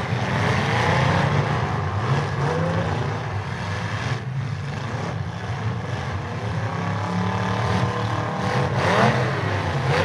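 Several demolition derby cars' engines running and revving at once, their pitch rising and falling as the drivers push and circle; one engine revs up and back down sharply near the end.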